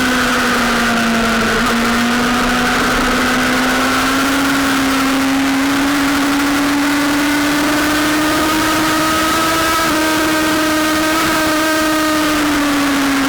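Sportbike engine running at high revs at a nearly constant speed. Its note rises slowly for several seconds and eases back near the end, over a constant rushing hiss of wind.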